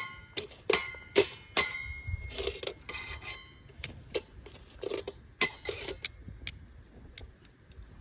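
Metal dishes and utensils clinking and clattering as they are handled, several knocks ringing on briefly with a clear tone. The clatter thins out after about six and a half seconds.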